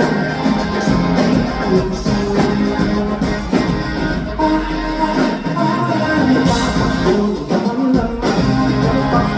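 Live indie-pop band playing a guitar-led passage with a steady drum beat; no lead vocal lines are picked out.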